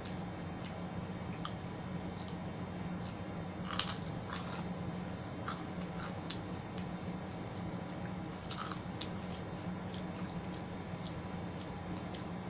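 Close-up eating sounds: biting into and chewing crunchy food, with sharp crunches about four seconds in and again near nine seconds, over a steady low hum.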